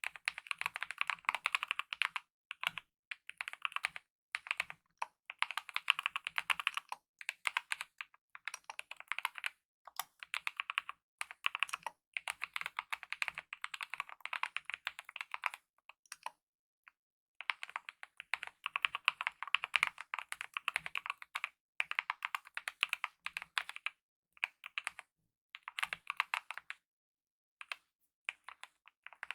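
Fast typing on a mechanical keyboard with lubed optical red linear switches and DSA-profile keycaps, in runs of quick key strokes broken by short pauses, the longest about a second after the middle.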